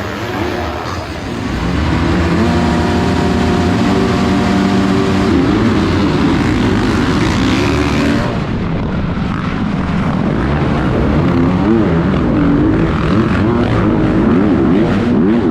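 Motocross dirt bike engines running hard, their pitch rising and falling quickly as the throttle is worked. About eight seconds in the sound changes and turns duller.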